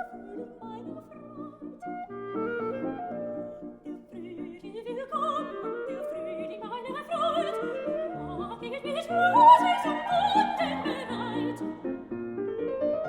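Classical art song: a soprano singing over rising piano arpeggios, climbing to a loud, high held note with vibrato about nine seconds in.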